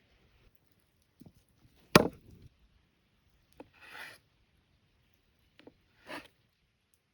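Food-preparation handling sounds: one sharp knock about two seconds in, a few lighter knocks, and two short scraping swishes, like a knife and ingredients worked on a wooden surface.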